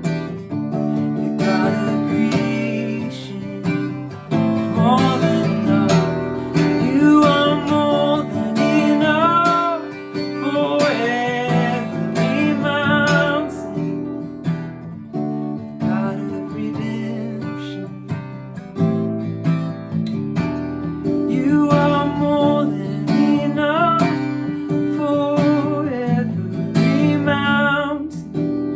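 Acoustic guitar strummed steadily, accompanying a worship song. A voice sings over it in phrases.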